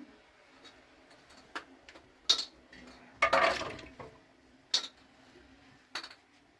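Kitchenware being handled: a handful of separate clinks and knocks of dishes and utensils, with a longer clatter about three seconds in.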